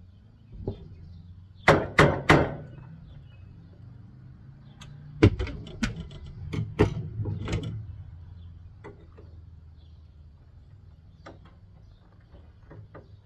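Sharp knocks and clanks from parts of an air conditioner being pried and banged apart by hand for scrap. There are three hard knocks in quick succession about two seconds in and a second run of knocks a few seconds later, then light taps and clicks, over a steady low hum.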